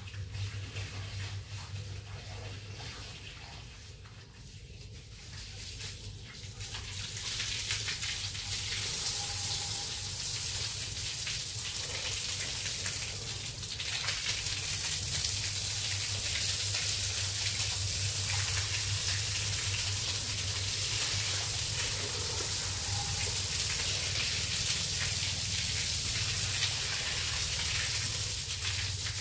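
Running water, building up over the first several seconds and then flowing steadily, over a constant low hum.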